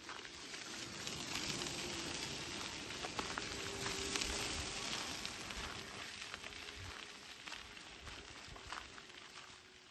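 A rushing hiss that swells for a few seconds and then slowly fades, with faint footsteps underneath.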